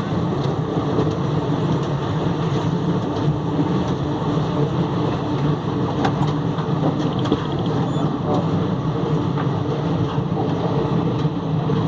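Passenger train running: a steady rumble, with two brief high squeaks about halfway through and again near the end.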